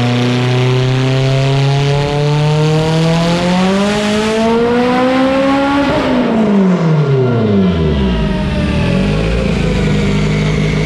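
Mitsubishi Lancer Evolution VIII's turbocharged 2.0 L four-cylinder making a full-throttle pull on a chassis dyno: the engine note climbs steadily for about six seconds, then falls away as the throttle closes and the rollers wind down, until the sound cuts off abruptly. On this run the track tyres are still slipping on the dyno rollers.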